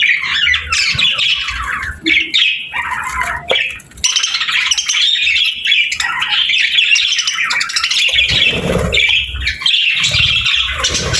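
A group of budgerigars (parakeets) chattering and squawking in a dense, continuous flock chorus, with a few low thuds in the second half.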